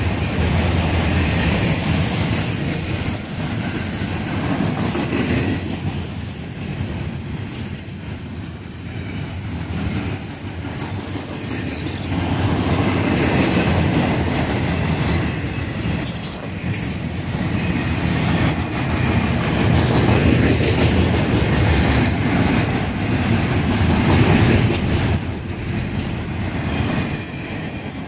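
Florida East Coast Railway freight train's cars rolling past at a modest speed: a steady rumble of steel wheels on rail with clickety-clack as wheels cross rail joints, fading a little partway through and then building again.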